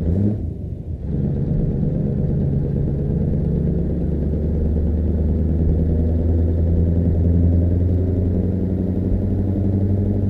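Scania V8 truck engine running, a deep steady exhaust drone. It dips briefly just after the start, then holds an even, unchanging low note.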